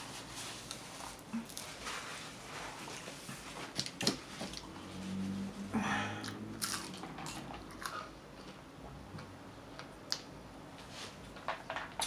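People biting and chewing hard, crunchy McDonald's chicken nuggets close to the microphone, with scattered crunches and mouth smacks.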